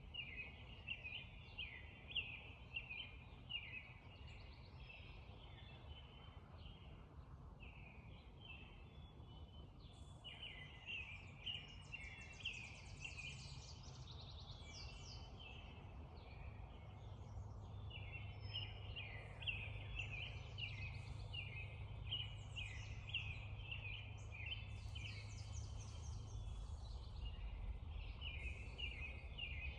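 Spring dawn chorus: many birds singing at once, short calls repeating without pause, with higher song phrases above them, over a steady low background rumble that grows a little louder in the second half.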